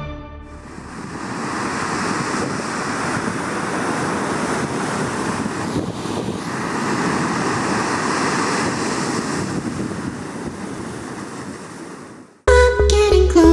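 Ocean surf: a steady rushing of waves breaking and washing in, swelling and easing. Music cuts back in suddenly near the end.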